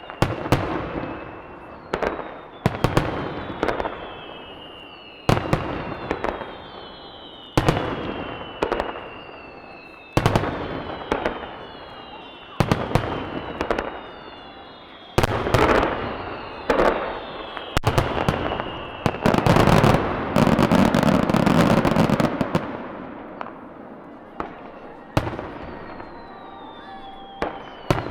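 Aerial fireworks shells bursting with sharp booms every two to three seconds, many followed by a high whistle falling in pitch. About two-thirds of the way through, a dense barrage of rapid bursts runs for a few seconds.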